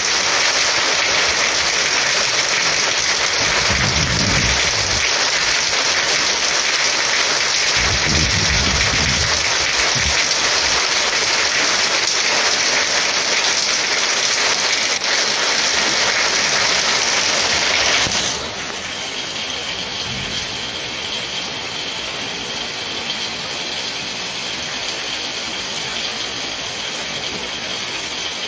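Heavy rain pouring steadily, with two low rumbles a few seconds apart. About two-thirds through, the rain suddenly drops to a softer, duller patter.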